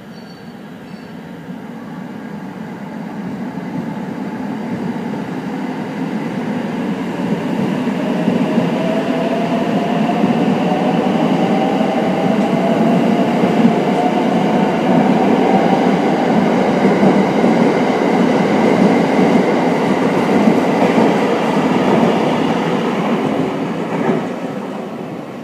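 JR West Thunderbird limited-express electric train moving out along the platform: wheels rumbling on the rails with a rising whine as it gathers speed. The sound builds to its loudest midway and fades as the last cars pass.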